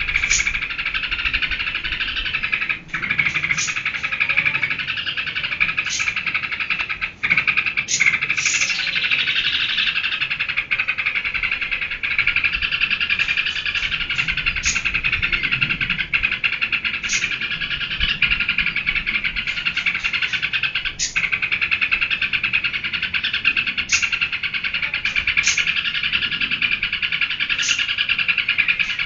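Yellow-vented bulbul (trucukan) singing in continuous rapid chatter, the intense 'geberan' song, with short high sweeping notes breaking through every second or two.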